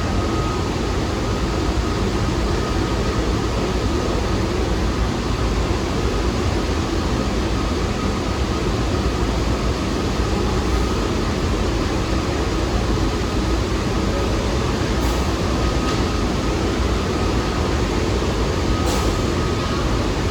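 New York City subway train running on the Lexington Avenue line, a steady loud rumble of wheels on rail.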